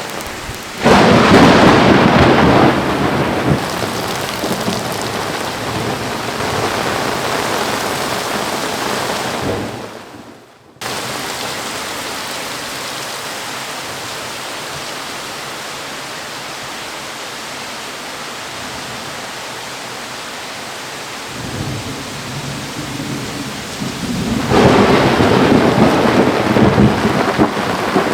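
Thunderstorm with heavy rain. A loud clap of thunder comes about a second in and rumbles off over several seconds into steady hissing rain. After a brief drop-out about a third of the way through, the rain carries on until a second loud peal of thunder rolls in near the end.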